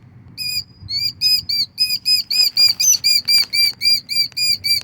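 A nesting bird giving an agitated alarm call at an intruder near its eggs: a rapid, even run of short, high notes, about five a second, breaking off briefly near the start and then going on without pause. A few soft rustles are heard around the middle.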